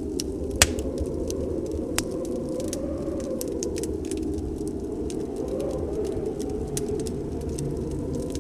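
Wood fire crackling in a fireplace, with sharp pops about half a second and two seconds in, over a steady low howl of snowstorm wind.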